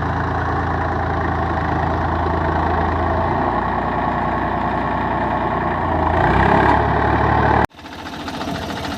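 Swaraj 855 FE tractor's 52 hp diesel engine running steadily while pulling a seven-tine chisel plough, louder for a moment about six seconds in. Near the end the sound cuts off suddenly and a quieter engine sound follows.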